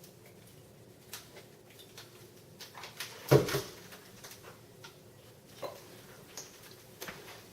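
Containers being handled: scattered light knocks and clicks, with one loud clunk about three seconds in.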